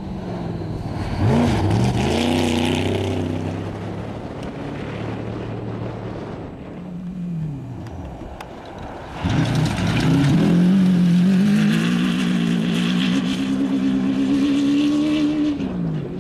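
Off-road race vehicles' engines revving hard as they go by: a short pass about a second in, then a louder, longer one from about nine seconds whose pitch climbs steadily before dropping away as it passes.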